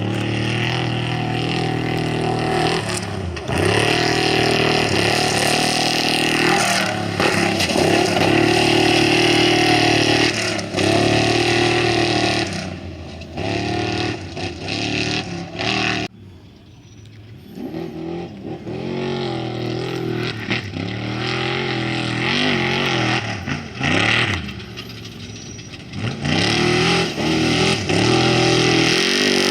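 Off-road race vehicles' engines running hard and revving as they pass, the pitch rising and falling with acceleration and gear changes. The sound drops off sharply about halfway through, then engine noise builds again.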